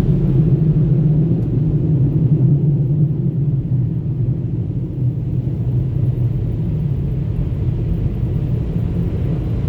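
Tunnel car wash air dryers blowing on the vehicle, heard from inside the car as a steady low rumble that eases slightly after about three seconds.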